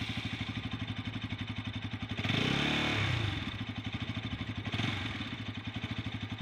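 Bajaj Pulsar 200's single-cylinder engine idling with an even beat, revved once about two seconds in and settling back to idle, with a short blip of the throttle near the end.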